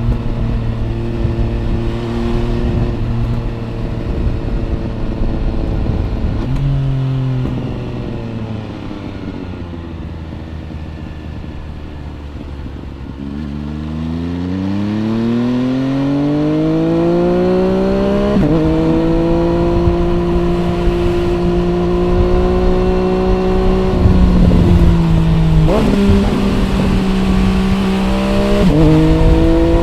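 MV Agusta Brutale 800 RR's three-cylinder engine through a Corse trio exhaust, heard from the rider's seat over wind noise. It runs steadily, then the revs fall away as it slows off the throttle. About halfway through it pulls hard with rising pitch, and it drops sharply in pitch several times with gear changes before settling back to a steady pull.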